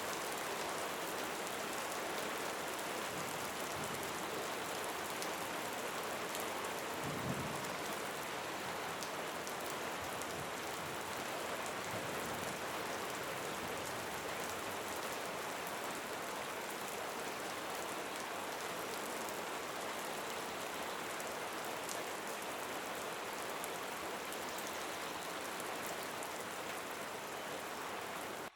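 Steady rain falling, a dense patter of drops on a surface, with a brief low thump about seven seconds in.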